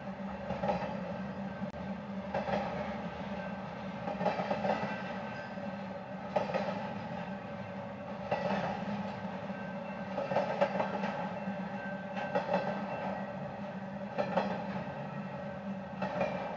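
Intermodal freight train of trailers on flatcars rolling past with a steady rumble of wheels on rail, and a clatter of wheels over a rail joint about every two seconds.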